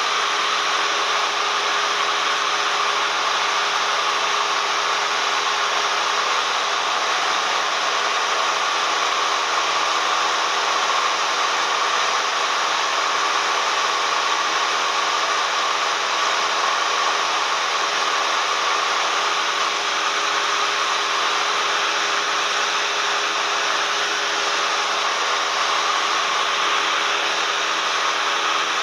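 Cessna 172M's four-cylinder Lycoming engine and propeller running steadily, with airflow noise, as heard inside the cabin.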